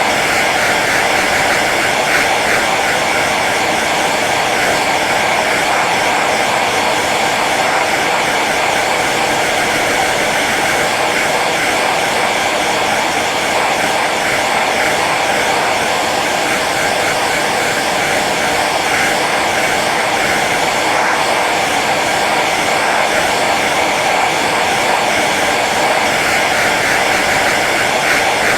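Hair dryer running steadily on its low setting: an even, unbroken blowing hiss with a motor hum.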